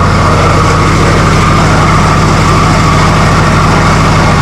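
Chrysler 245 Hemi straight-six running steadily on a Holley 350 carburettor, with an even, unchanging beat.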